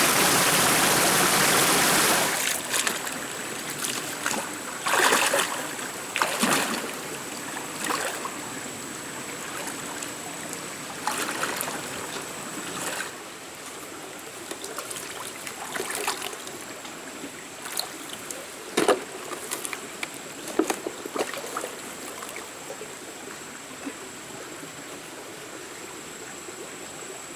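Running stream water, loud and steady for about two seconds, then cutting to a quieter stretch of small splashes and knocks in water. A thin, steady high-pitched tone runs underneath.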